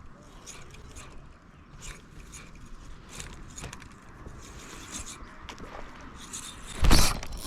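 Small scattered clicks and ticks over a low hiss as a topwater frog lure is worked. About seven seconds in comes a sudden loud splash: a bass striking the frog.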